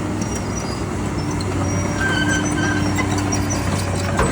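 A heavy vehicle's engine running steadily, with a constant low hum and a held mid-pitched drone.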